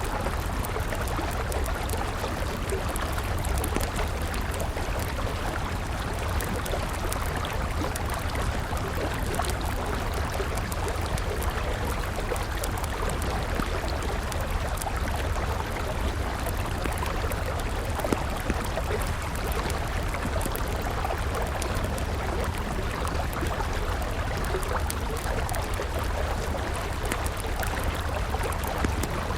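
A river flowing steadily, with a wood campfire crackling over it in scattered small pops.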